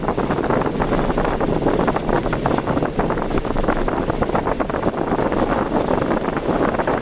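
Steady rushing noise of a car driving through a typhoon, with wind and rain buffeting the car. Many small irregular ticks run through it.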